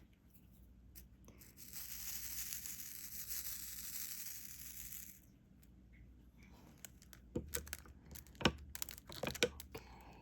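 Diamond-painting supplies being handled: a steady crinkling rustle of plastic for about three and a half seconds, then a scatter of light clicks and taps.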